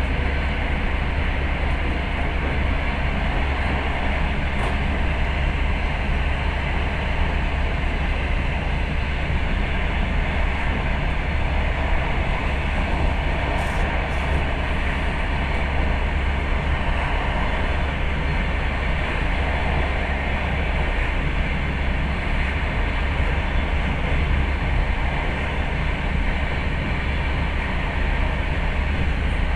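Passenger train running, heard from inside the carriage: a steady, even running noise of wheels on rail with a strong low drone.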